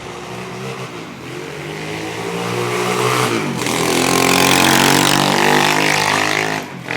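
125 cc pit bike engine revving hard under acceleration, getting louder. Its pitch drops sharply about three seconds in, as at a gear change, then climbs again, and it cuts off briefly near the end.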